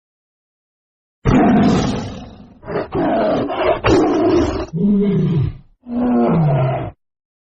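Tiger roaring: a string of loud, rough roars starting about a second in, the last two sliding down in pitch, cut off abruptly near the end.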